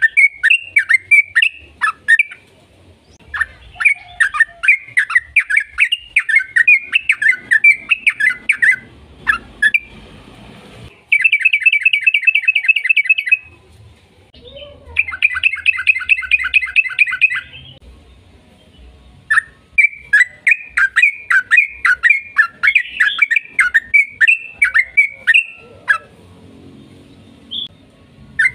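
Yellow-vented bulbul singing long runs of rapid, bubbly chattering notes. About 11 seconds in and again near 15 seconds come two fast, even trills, and short pauses separate the runs.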